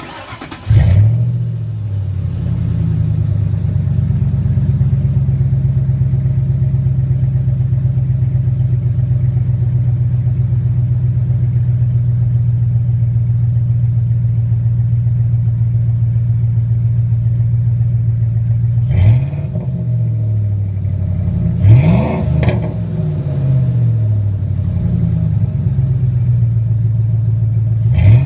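Ford 4.6L V8 exhaust through a single Flowmaster Super 10 muffler and a turned-down tailpipe: the engine starts up under a second in, settles into a steady idle, then is revved several times near the end.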